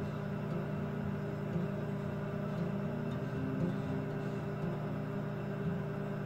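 Maytag top-load agitator washing machine running with a steady motor hum.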